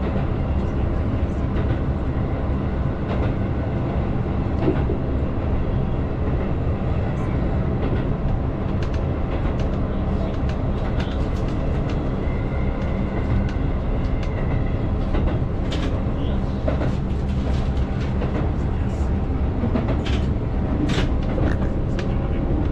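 Keihan 8000 series electric train running along the track, heard from inside the front car: a steady rumble of wheels on rail with faint motor tones and scattered clicks.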